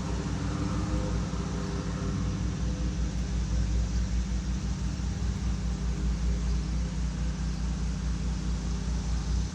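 A steady, low mechanical hum with an even rumble throughout.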